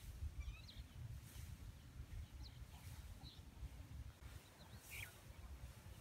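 Faint, scattered small-bird chirps over a steady low rumble, with a soft high hiss swelling about every one and a half seconds.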